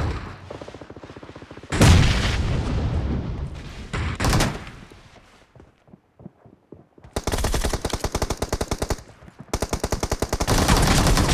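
Automatic gunfire in a shooter video game: several long bursts of rapid shots, about ten a second, with a lull in the middle.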